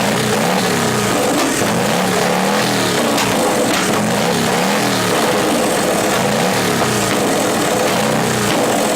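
Motorcycle engine revved again and again, its pitch rising and falling about once a second.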